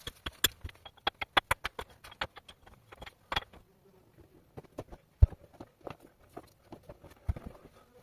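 Irregular sharp knocks and clicks of hard objects striking one another, coming quickly for the first three and a half seconds, then sparser, with a single louder thump a little after five seconds in.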